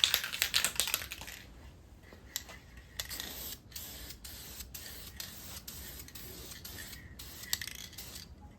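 Aerosol can of high-heat engine paint spraying in short hissing bursts, about two a second, starting about three seconds in. The first second holds a clatter of quick clicks.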